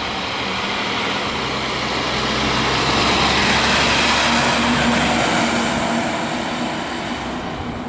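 A fire engine driving past close by, its engine and tyres growing louder to a peak about halfway through, then fading as it moves off.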